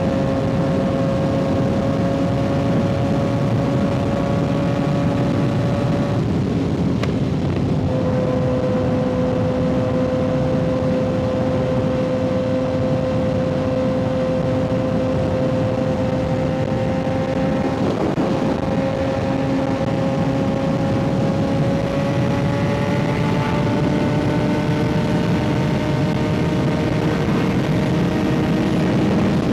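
Kawasaki ZX-6R 636 inline-four engine through an aftermarket M4 exhaust, cruising at steady revs. The engine note cuts out briefly about six seconds in and comes back lower, as on an upshift, then climbs slowly toward the end. Rushing wind noise runs underneath.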